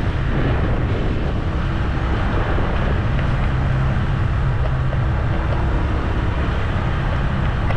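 A vehicle running along a road: a steady low engine rumble with road and wind noise, unbroken throughout.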